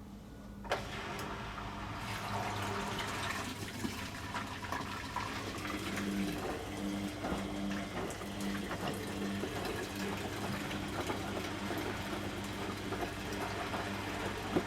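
Beko washing machine filling with water: a click about a second in as the inlet valve opens, then a steady rush of water into the machine over a low hum.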